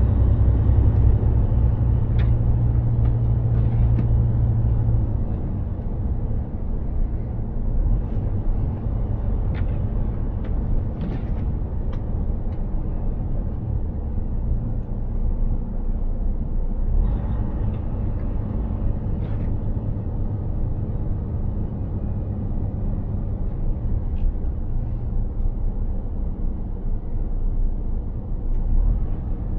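Mercedes-Benz Actros 2763 truck's diesel engine droning steadily with road noise while driving. It is louder for the first five seconds or so, then eases to a lower, even drone.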